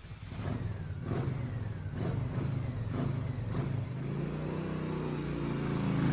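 A truck engine being revved in several short blips about a second apart, then held at a steadier, rising run.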